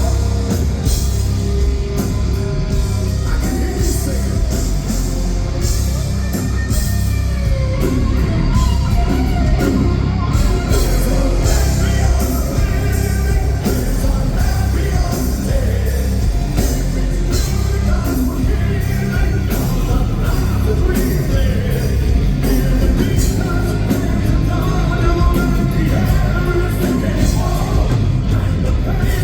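Heavy metal band playing live at full volume, with a lead singer over the full band.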